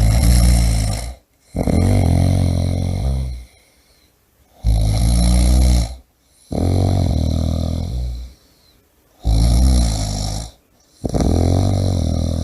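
A person snoring loudly with a deep, rattling pitch. Each breath gives two long snores close together, then a short quiet pause, about three breaths in all.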